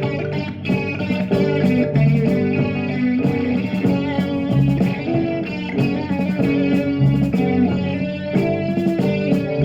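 A live rock band playing an instrumental passage: electric guitar over bass guitar, with regular sharp percussive hits and no vocals.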